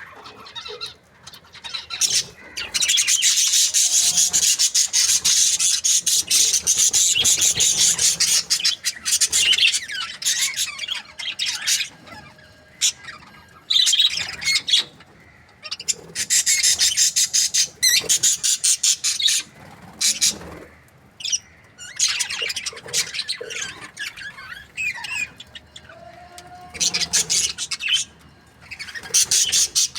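Budgerigars chirping and chattering in fast, scratchy high-pitched runs: one long unbroken stretch near the start, then shorter bursts with brief pauses between them.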